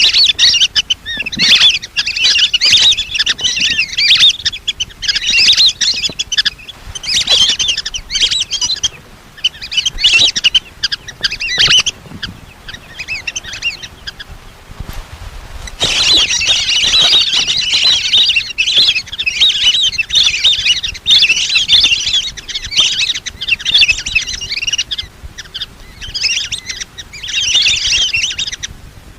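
Lesser whistling ducks calling: many shrill whistled notes overlapping in dense bursts, the flock call used as a trapper's lure. The calling eases off for about two seconds a little past halfway, then starts again.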